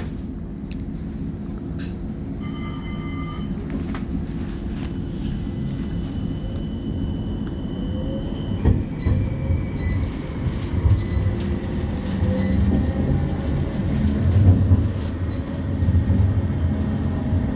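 West Midlands Metro CAF Urbos 3 tram heard from inside as it pulls away from a stop: a short beeping tone about two and a half seconds in, then a thin electric whine from the traction equipment over a rumble of wheels on rail that grows louder as the tram gains speed.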